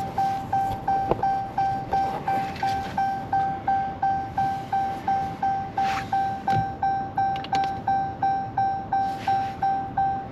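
A 2019 Dodge Charger's warning chime dings over and over, with the ignition in accessory mode. It is a single-pitched ding, about three a second and very even.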